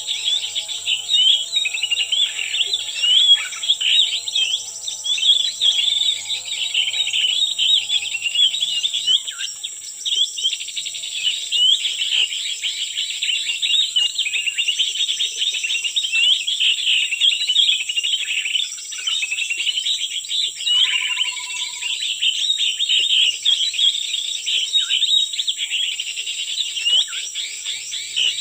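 Many small forest birds chirping and twittering rapidly and without a break, over a steady high insect buzz. A faint low hum fades out about eight seconds in.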